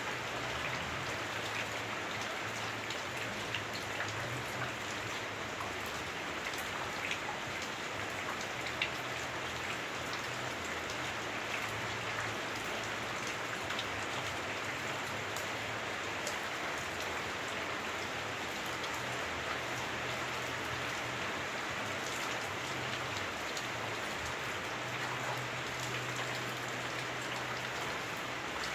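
Heavy rain falling on a house roof, heard from indoors: a dense, steady hiss of drops with scattered sharper drop ticks. A low drone swells and fades beneath it.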